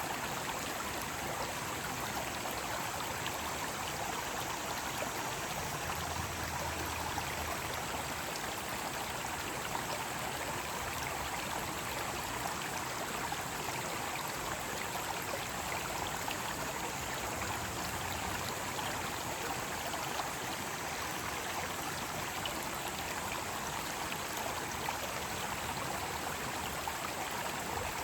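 Mountain stream water flowing and splashing over rocks in a steady, even rush.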